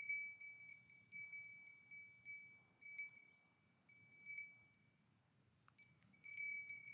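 Metal cowbell on a grazing cow clanking in irregular runs of strikes, its ringing tone held between them. It falls quiet for about a second near the end, then rings again.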